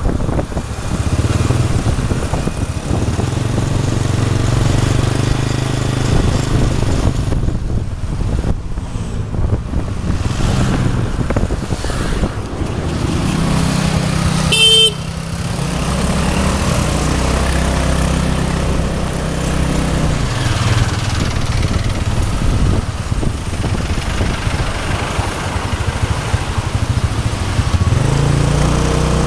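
Motorbike engine running under way, its pitch rising and falling several times as the bike speeds up, shifts and slows. A vehicle horn beeps once, briefly, about halfway through.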